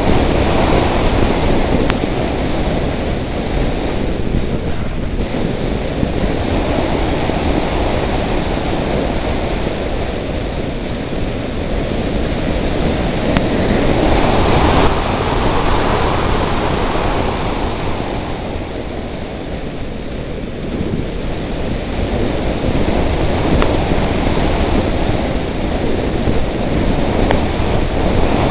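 Strong wind buffeting the microphone, a dense rumbling rush that swells and eases in slow gusts, strongest about halfway through.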